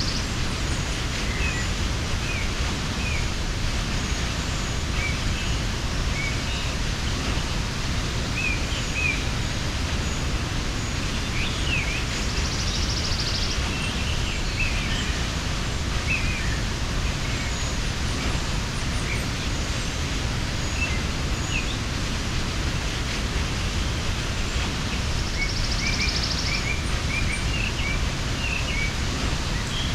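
Steady rush of a mountain waterfall, with small birds chirping faintly and briefly throughout and a short, higher buzzy trill three times.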